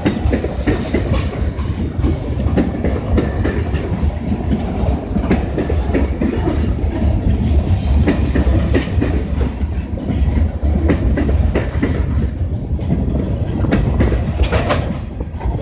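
Freight train cars rolling past with a steady low rumble, the wheels clacking over the rail joints.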